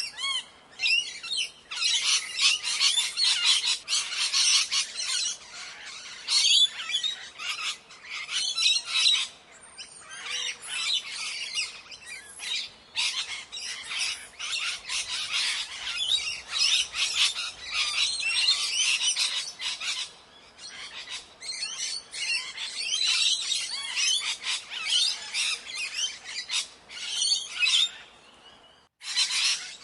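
A flock of parrots squawking and chattering, many shrill calls overlapping continuously. The sound cuts out suddenly for a moment near the end, then resumes.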